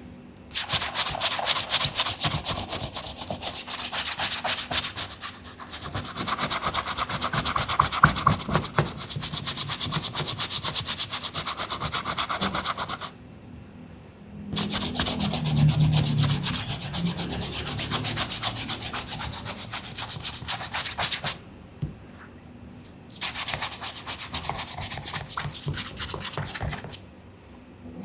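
Rapid back-and-forth scrubbing of a sneaker with a brush, in three long bouts separated by short pauses.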